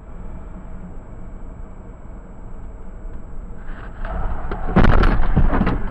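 Car on the move, a steady low rumble of engine and road noise picked up by a dashcam, rising to a loud noisy surge about five seconds in.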